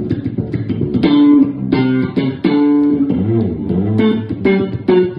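Bass guitar playing a run of plucked notes, with a note or two sliding in pitch about three seconds in.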